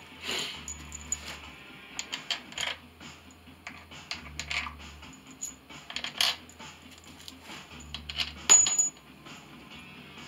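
Scattered light metal clinks and taps of bolts and tools being handled around the freshly refitted sump pan, with one louder clack about eight and a half seconds in.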